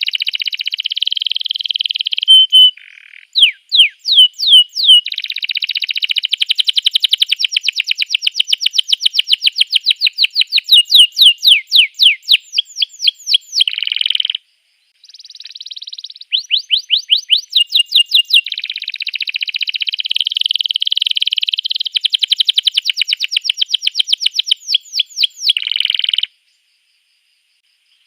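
Domestic canary singing: long runs of rapid, repeated high-pitched notes, switching from one trill to another, with a short break about halfway through and a pause near the end.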